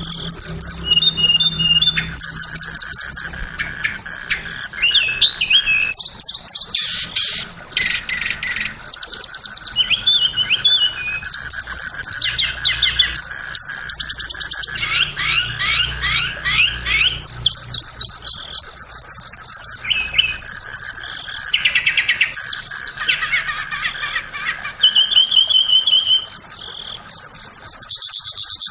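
Tledekan (blue flycatcher) singing a lure song: a continuous stream of varied high-pitched twittering phrases and fast trills, one after another with hardly a break.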